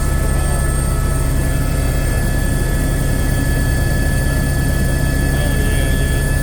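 Eurocopter AS350 B2 AStar helicopter in steady flight, heard from on board: a constant, loud rotor-and-engine rumble with a steady high turbine whine over it.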